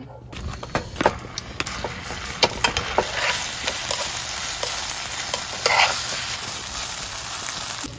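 Fried rice sizzling in a hot black griddle pan while two metal spatulas stir and chop it, with frequent short scrapes and taps of the blades against the pan.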